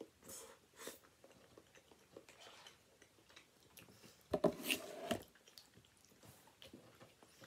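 A person chewing a mouthful of fettuccine Alfredo with the mouth closed: soft, wet mouth clicks. A louder, noisy sound lasting under a second comes about four and a half seconds in.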